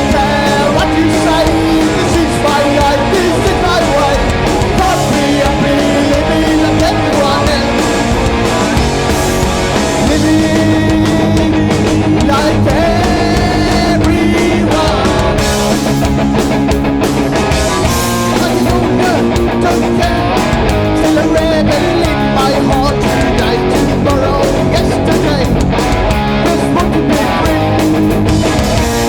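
Oi! punk band playing live and loud: electric guitars over bass and drums, the drums hitting steadily.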